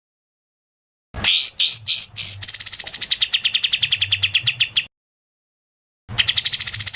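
A songbird's rapid 'tembakan' phrases, the kind used in masteran training recordings. About a second in, a few rising whistled notes run into a fast trill of about fifteen sharp repeated notes a second. This stops abruptly, and after a silent gap a second burst of quick sweeping notes comes near the end.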